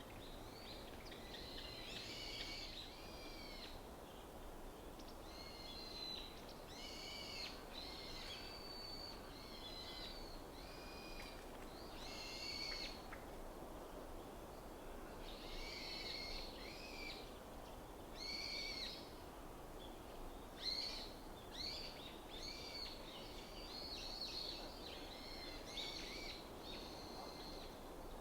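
Wild forest birds calling repeatedly in short, chattering notes, in clusters with brief pauses. Beneath them runs a steady low background hum.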